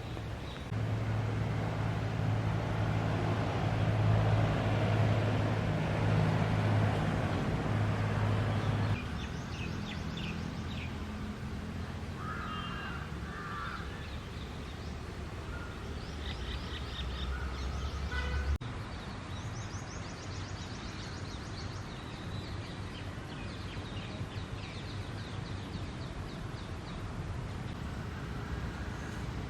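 Outdoor ambience of bird calls, short repeated calls coming in bouts, over a steady low engine hum. The hum is loudest for the first third, then drops back, and the calls grow more frequent after that.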